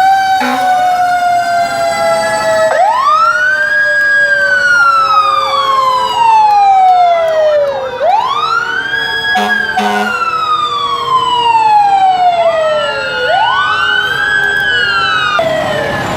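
Fire truck's mechanical siren (Q-type) being wound up again and again: each time the pitch climbs quickly over about a second, then slowly coasts back down over several seconds. This happens about four times.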